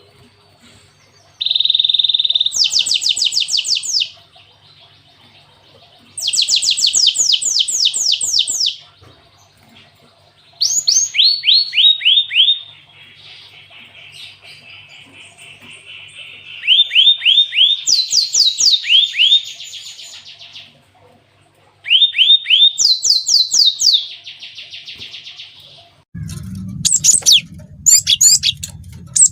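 Gelatik batu (cinereous tit) singing canary-style song: loud phrases of fast repeated trilled notes, each lasting one to three seconds, with short pauses between them. Near the end a low hum comes in under a run of sharp chips.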